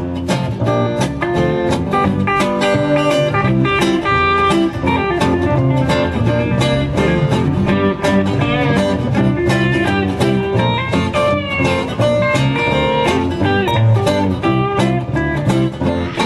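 A live band playing an instrumental break in a country-blues rock song: guitar over bass and drums with a steady beat.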